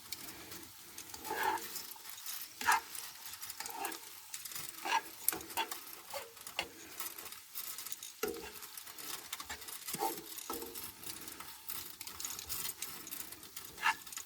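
Shredded carrots and red cabbage sizzling in butter and oil in a pan, with a utensil stirring through them in short, irregular scrapes and clicks.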